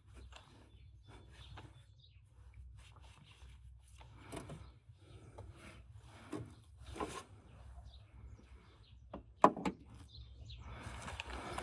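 Scattered scrapes, rustles and light clicks of tools and parts being handled during car repair, with one sharp knock about nine and a half seconds in.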